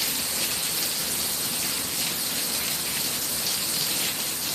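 Heavy thunderstorm rain pouring down steadily, an even unbroken hiss of torrential rainfall.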